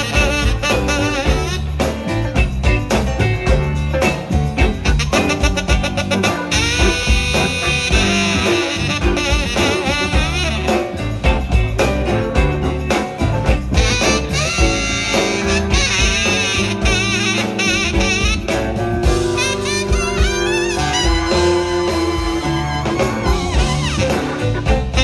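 Blues band playing an instrumental break between sung verses: horn lines over drums and bass.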